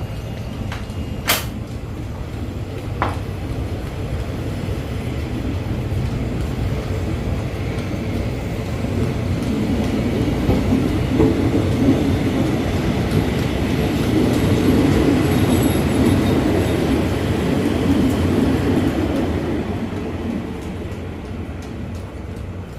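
Diesel train running on the track past the station, a steady low rumble that swells about a third of the way in, peaks around the middle and eases off near the end. Two sharp knocks come in the first few seconds.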